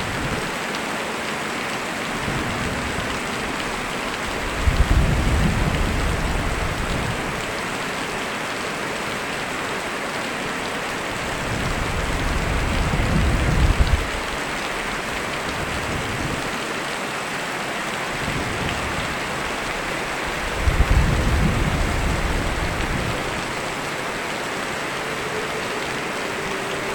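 Steady heavy rain with three low rumbles of thunder. Two rumbles start suddenly, about five and twenty-one seconds in; a third builds up gradually and peaks around fourteen seconds.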